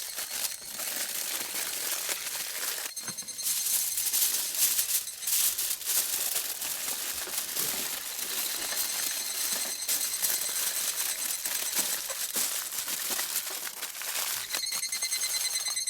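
Crackling and sizzling of cooking over a campfire: a dense mat of small pops and clicks with louder snaps scattered through it. A high, thin tone with overtones fades in and out behind it, steady near the end.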